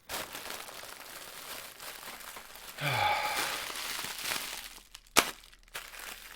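Plastic packing material crinkling as a box is unpacked by hand. About three seconds in there is a short, falling, sigh-like voice, and about five seconds in a single sharp snap.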